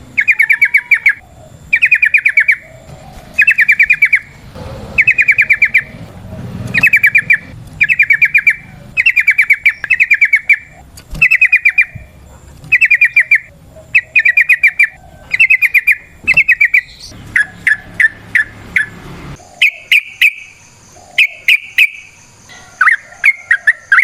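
Yellow-vented bulbul (trucukan) singing, a loud chattering phrase of quick repeated notes about once a second. Near the end it breaks into shorter, separate notes.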